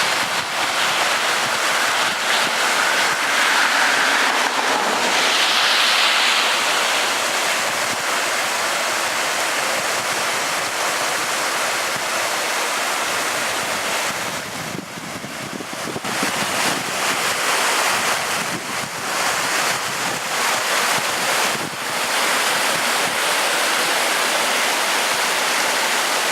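Stormwater runoff rushing steadily along a ditch and through a culvert during heavy rain, a continuous wash of water noise that dips briefly about halfway through, with wind on the microphone.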